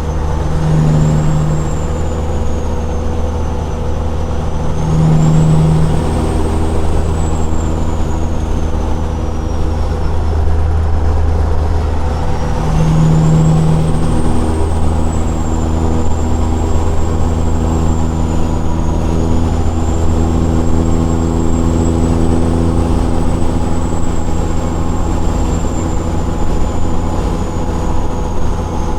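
Straight-piped Caterpillar 6NZ diesel in a semi truck running under way with a continuous low drone. The engine note steps in pitch a few times, and a high turbo whistle rises and falls with it, climbing about five seconds in and again near the middle.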